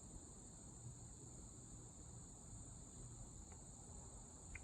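Near silence: faint garage room tone with a steady high-pitched hiss.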